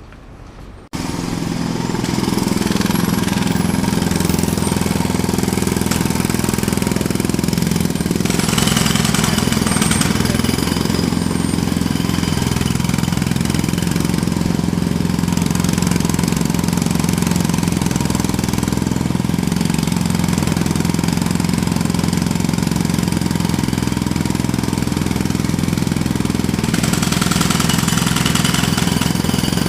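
Jackhammer hammering continuously, with a dense rapid pulsing, cutting in abruptly about a second in.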